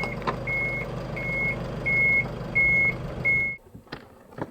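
Camper van's reversing warning beeper sounding six evenly spaced beeps, a bit over one a second, over the running engine while backing into a parking spot. The engine is switched off about three-quarters of the way in, followed by two sharp clicks.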